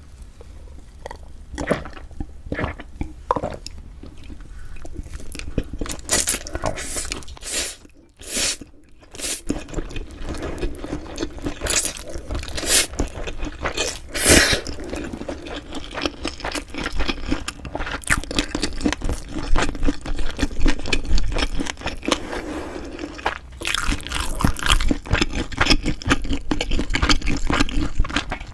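Close-miked ASMR eating sounds: a person chewing a meal of bibim-myeon noodles and beef rib meat, with a steady run of quick wet mouth clicks. There is a brief lull about eight seconds in, and the chewing gets busier in the last few seconds.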